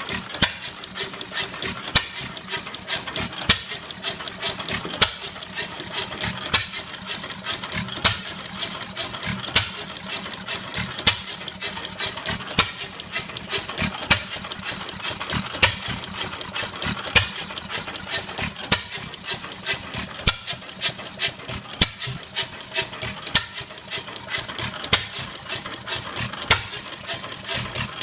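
Circa-1923 Novo hit-and-miss gas engine of about 1 hp, running. A sharp firing bang comes roughly every second and a half, with lighter clicks while it coasts between firings.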